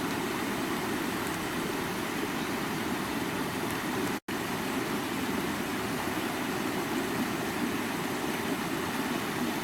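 Stream water running in a steady rush, with most of its weight in the low-mid range. The sound breaks off for an instant about four seconds in, then carries on unchanged.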